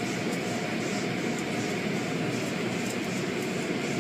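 Automatic car wash tunnel machinery running with a steady, even roar.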